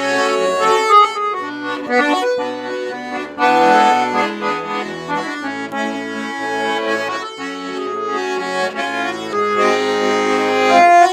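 Accordion playing an instrumental break between sung verses of a folk-style song: a melody in held, changing notes over a steady bass-and-chord accompaniment.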